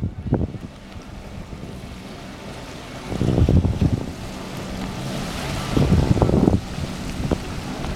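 Wind buffeting the microphone over the sound of waves, with louder low rumbling gusts about three seconds in and again about six seconds in.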